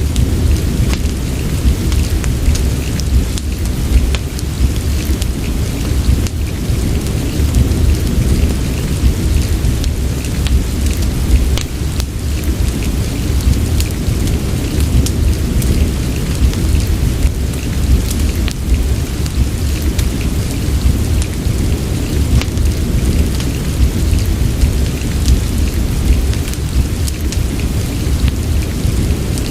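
Steady rain with a deep, continuous low rumble, mixed with a crackling wood fire: scattered sharp pops and crackles over the even hiss.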